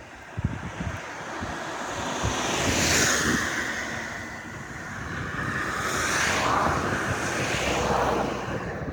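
Sea waves breaking and washing up a beach, swelling twice, with wind buffeting the microphone.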